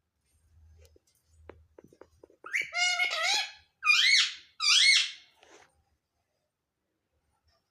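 Pet parrot calling: three pitched squawks, the first about a second long with wavering pitch, the next two shorter, each rising then falling. Faint soft taps and clicks come before them.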